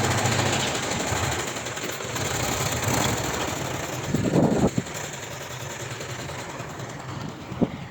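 Heavy diesel earthmoving machinery running steadily, with a louder burst of noise lasting about half a second a little past four seconds in, after which it runs somewhat quieter. There is a brief knock near the end.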